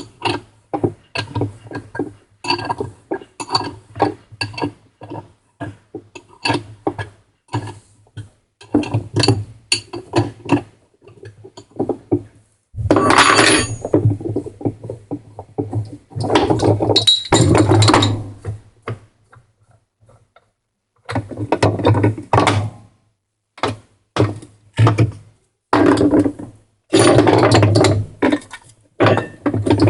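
Metal and plastic washing-machine parts and hand tools being handled during disassembly: many irregular clinks and knocks, with a few longer scraping or rattling stretches and a short pause about two-thirds of the way through.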